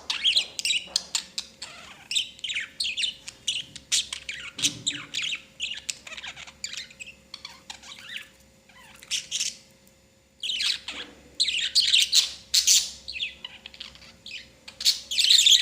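Budgerigars chattering, with rapid high chirps and squawks coming in quick bursts and two short lulls partway through.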